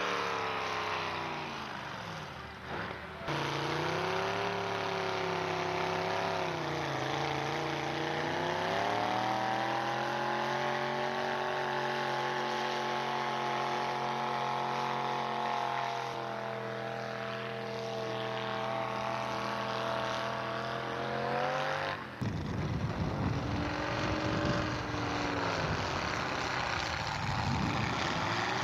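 Pulling truck's engine held at high revs under load, its pitch sagging and climbing again as it drags the sled. There is a short break about three seconds in, and an abrupt change to a rougher, choppier sound near the end.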